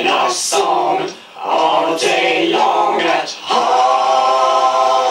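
Several voices singing a layered, choir-like a cappella chant, with short breaks between phrases.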